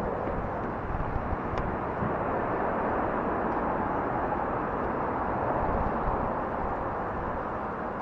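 Steady rushing noise of a fat-tire e-bike in motion: tyres rolling over the trail, with wind on the microphone.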